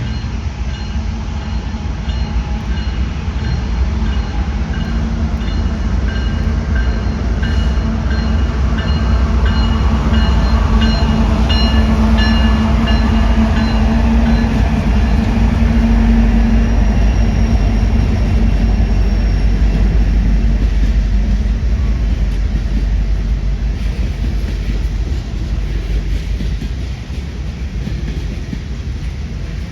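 Train passing close by: a steady heavy rumble of wheels on rail with a low hum. It builds to its loudest around the middle and eases near the end, with faint high squealing tones in the first half.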